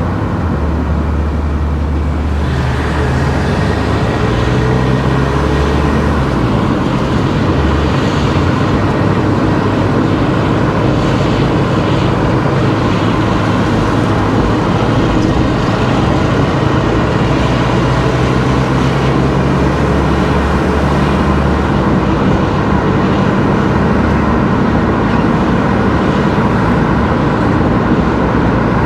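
Car driving along a road: steady engine and tyre noise, with the engine note shifting in pitch a few times.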